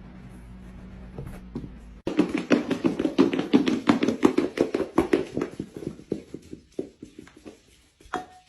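A rapid, rhythmic run of taps, about five a second, starting suddenly about two seconds in and fading out near the end. It follows a low steady hum, and a brief short tone comes just before the end.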